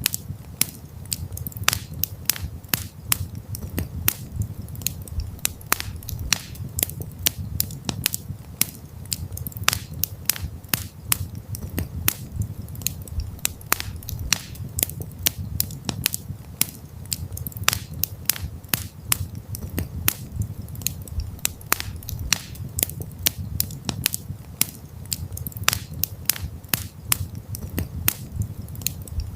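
Campfire crackling and popping: irregular sharp snaps several times a second over a steady low rumble of the burning wood.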